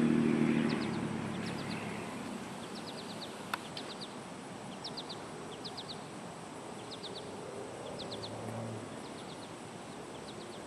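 A bird calling repeatedly in short quick series of high chirps, each series of two to five notes, about once a second, over steady outdoor background noise. A single sharp click about three and a half seconds in.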